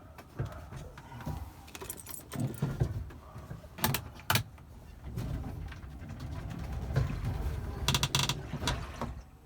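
GEM electric car inching forward and braking, with a low rolling rumble, a few sharp clicks and a quick rattle of clicks near the end. This is the test for the sloshing noise the owner hears from water trapped in the car's frame rail.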